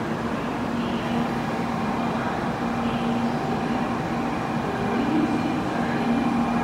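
A 700 series Shinkansen train standing at a station platform, its equipment humming steadily with a low tone that comes and goes. It begins to roll forward near the end.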